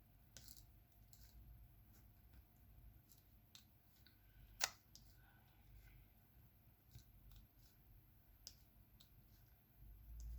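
Faint, scattered clicks and taps of a diamond painting pen picking up resin drills and pressing them onto the sticky canvas, with one sharper click a little under halfway through.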